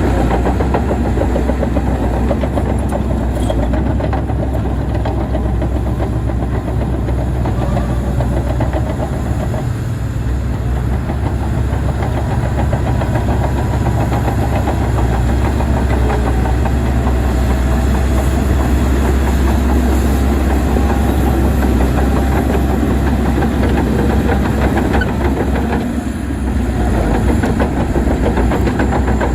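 Heavy diesel earthmoving machinery running steadily under load, a deep engine drone with a constant rattle over it, easing briefly twice.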